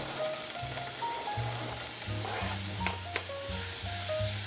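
Diced tomato sizzling in hot oil with onion, garlic and ginger in a stainless steel pot as it is stirred in with a silicone spatula, with two light knocks about three seconds in. Background music plays underneath.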